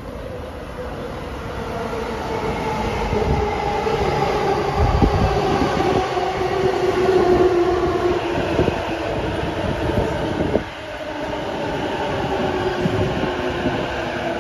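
E233-1000 series electric train pulling into the platform and slowing, its motors whining in a tone that slowly falls as it brakes, over the rumble of the wheels on the rails. The sound grows louder over the first few seconds as the cars pass, then dips suddenly about eleven seconds in.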